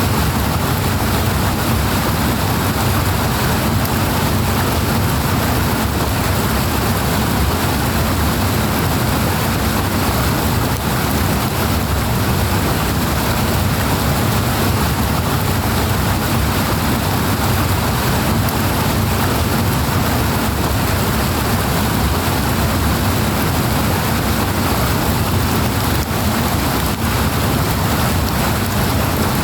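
Water rushing loudly and steadily, an even, unbroken noise with no pauses or changes.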